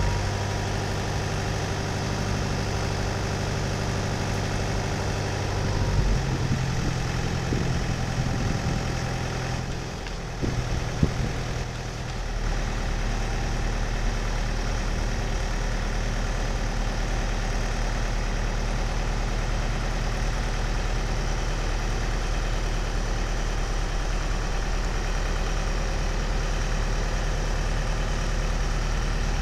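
Diesel engine of a Charlatte CBL 2000D belt loader running steadily. About halfway through, its note dips briefly and there is a single knock, then it settles into a lower, even hum.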